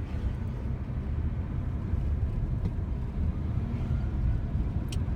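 Steady low rumble of road and engine noise heard from inside a moving car, with a brief click near the end.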